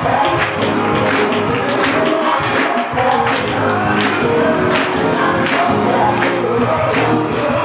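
Live gospel worship music: singers over a band with a steady beat of percussion hits about twice a second.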